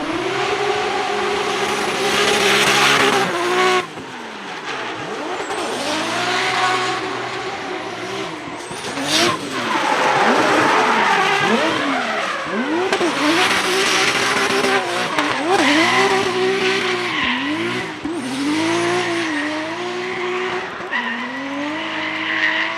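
Drift car engine revving hard and rising and falling in pitch about once a second as the throttle is worked, with tyres squealing loudly in long spells during the slide.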